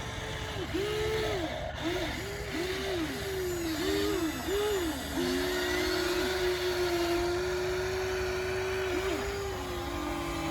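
Electric motors of a radio-controlled toy construction machine whining. The pitch rises and falls in quick arches for the first few seconds, then holds steady through the middle and dips near the end.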